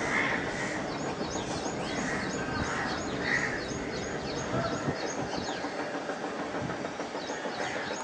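Small birds chirping: a run of short, high, falling chirps, several a second, over a steady background rumble. The chirps pause a little after the middle and start again near the end.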